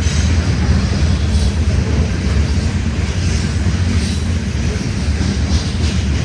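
CN freight train passing: a steady, loud, heavy rumble of rolling stock, with faint wheel clacks over the rails.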